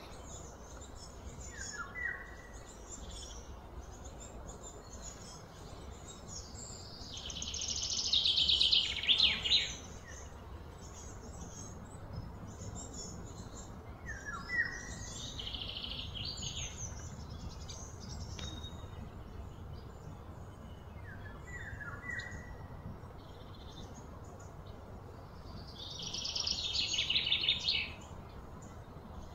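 Birds calling over a steady low outdoor background: a few short, high chirps and two loud, rapid trills of about two seconds each, one about a third of the way in and one near the end.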